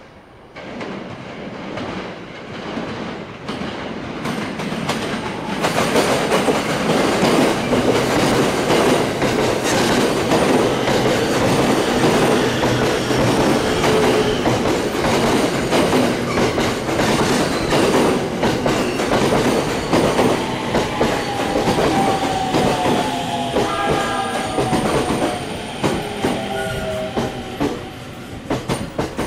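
Electric commuter train running into the platform, its wheels clacking over rail joints, the noise building over the first few seconds to a loud, steady rumble. In the last third a whine falls in pitch as the train slows.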